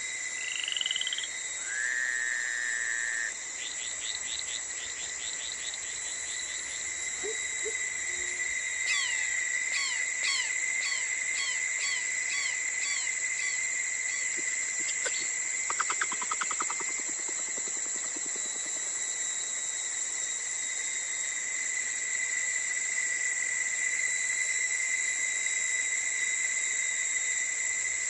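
Frog and insect chorus. Steady high-pitched trilling runs throughout, and over it individual frogs call in repeated series of quick chirps and trills, with a pulsed croak about halfway through.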